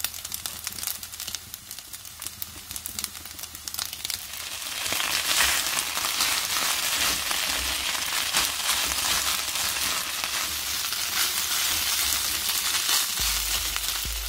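Fried rice with Spam and vegetables sizzling and crackling in a hot nonstick pan as ketchup is stirred in with a spatula. The sizzle is quieter at first and gets louder about five seconds in.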